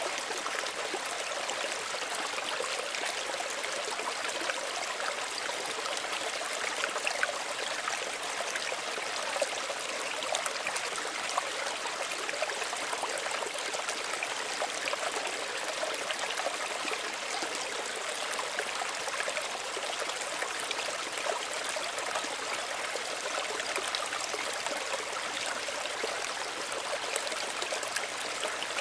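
Small stream running steadily, water trickling and splashing over stones in a continuous rushing hiss.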